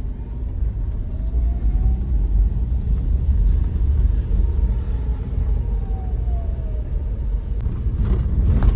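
A vehicle being driven, with a steady low engine and road rumble and a faint tone that rises and then falls over several seconds.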